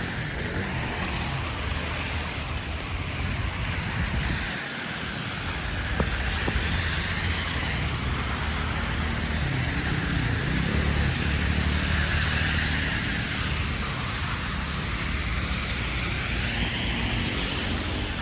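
City street traffic: a steady low rumble of cars, with the hiss of vehicles passing that swells and fades several times.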